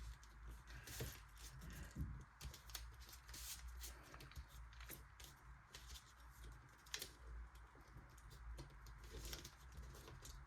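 Faint rustling and crinkling of origami paper being folded and creased by hand: scattered short crackles and clicks, the sharpest about seven seconds in, over a steady low hum.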